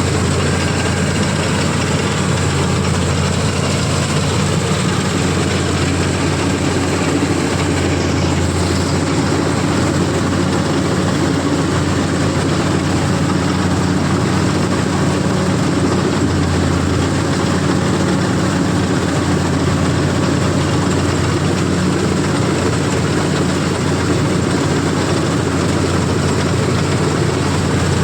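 CLAAS combine harvester running steadily with an even, constant engine hum, cutting paddy.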